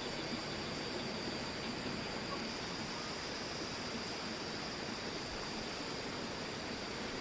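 Steady rushing background noise with a constant high-pitched tone running through it, with no distinct events.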